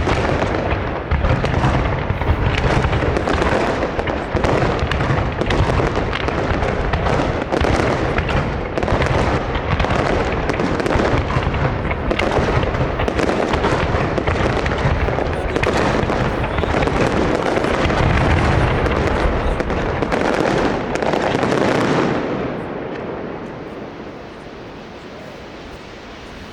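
Large aerial fireworks display in a dense barrage, bangs and crackles following one another without a break, then dying away about 22 seconds in.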